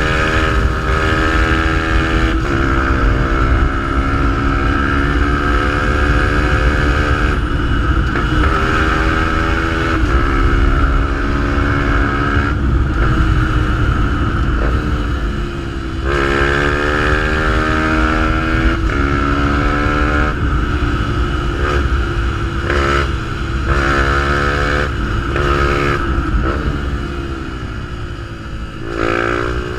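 Fantic 125 motorcycle's engine through a GPR exhaust, accelerating again and again. The pitch climbs and drops back at each gear change or throttle lift, over steady wind and road rumble. The revs fall away for a moment near the end, then it pulls again.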